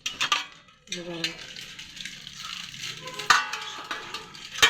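Metal dishes and tumblers clinking against each other as they are handled in a dishwasher rack: a few sharp clinks with a brief ringing, the loudest near the end. A short bit of voice about a second in.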